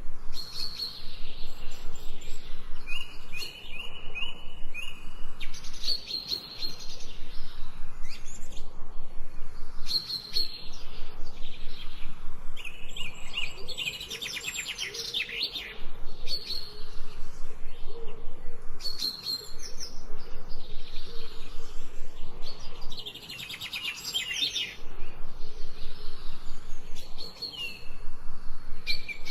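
Forest birds singing, several short whistled phrases and rapid trills repeating every few seconds, over a steady hiss of a small stream running.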